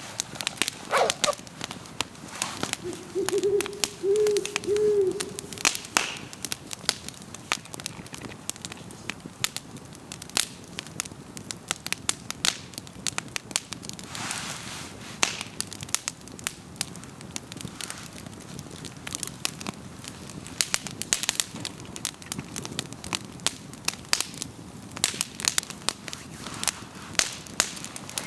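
Wood fire crackling and popping, with sharp snaps throughout. About three seconds in, a bird gives a short run of low hooting notes.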